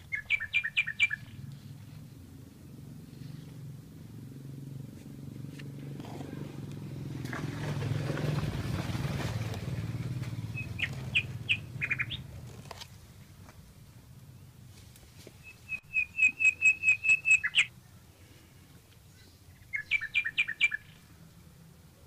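A bird calling in four short bursts of rapid, evenly spaced chirps, the longest lasting about two seconds. Between the first and second bursts, a low rushing noise swells for several seconds and fades away.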